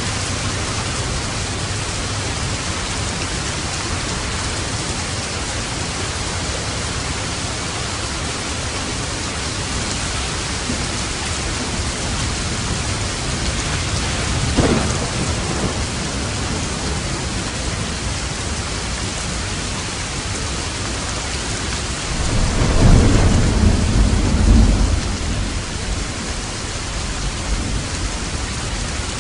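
Steady heavy rain falling on a roof, with a short crack of thunder about halfway through and a longer, louder, deep rumble of thunder a little before the end.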